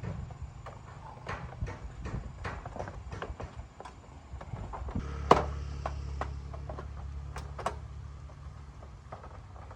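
A small motorbike engine running with a low hum, under scattered metallic clicks and knocks of tools and parts being handled. One sharp knock stands out about five seconds in, as the hum grows stronger.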